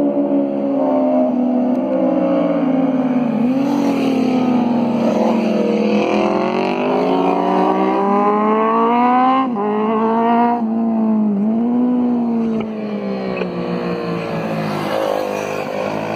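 Motorcycle engine pulling hard, its pitch climbing for several seconds and then dropping sharply at two gear changes, before settling into a steadier cruise.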